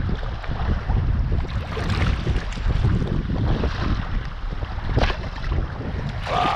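Wind buffeting the microphone in a low, uneven rumble, over sea water sounds from a kayak on the open coast, with a few sharp splashes. A brief pitched sound comes near the end.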